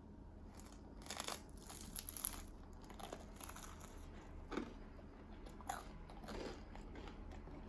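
Crunchy bites into a dark-toasted, partly burnt bagel, then chewing: a cluster of crisp crackles early on, then single crunches every second or so.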